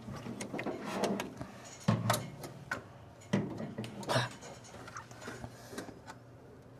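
Irregular clicks, knocks and rubbing of metal parts as a threaded part is worked and turned by hand. Several sharper knocks come in the first four seconds, and it goes quieter near the end.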